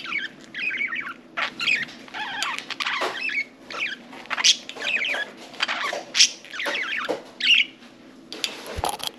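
Budgerigars chirping and chattering in quick, irregular runs of short high calls, many sweeping up and down in pitch.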